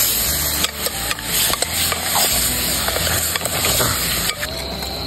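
Meat sizzling as it fries in a pan, with clicks and scrapes from stirring and a low steady hum underneath; the sizzle drops away about four seconds in.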